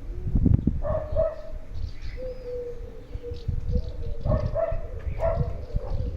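A dove cooing in several drawn-out, low notes, with faint small-bird chirps and an irregular low rumble.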